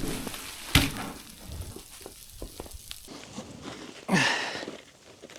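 A log being rolled by hand: a sharp knock about a second in, then crunching and scraping. Near the end comes a short strained grunt from the man doing the lifting.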